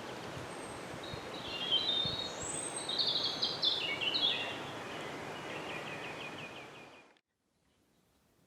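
Outdoor woodland ambience: a steady hiss of background noise with small birds singing short high chirps and warbles, then a fast trill of repeated notes. It all cuts off abruptly about seven seconds in.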